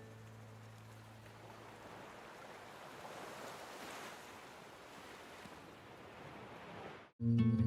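Sea waves washing in, a soft hiss that swells about halfway through and eases off, then cuts off suddenly near the end.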